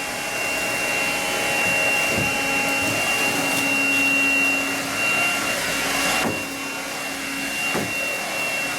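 Eureka Quick Up 96H 6-volt cordless stick vacuum running with a steady high whine over a lower hum, with a few brief knocks along the way.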